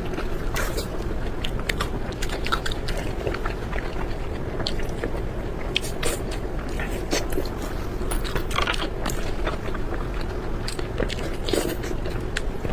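Close-miked eating: irregular bites and chewing, with many short wet clicks scattered throughout, over a steady low hum.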